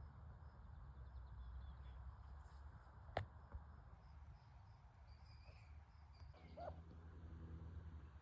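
Near silence: faint outdoor ambience with a low rumble, a single sharp click about three seconds in, and a few faint high chirps.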